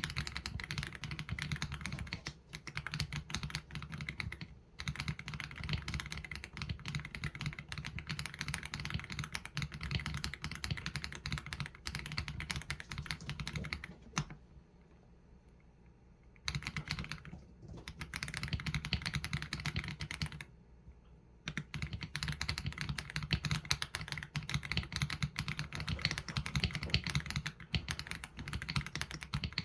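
Fast, continuous typing on an AULA F87 Pro mechanical keyboard with Leobog Graywood V3 linear switches and PBT keycaps. The keystrokes pause twice: for about two seconds around the middle and for about a second a little later.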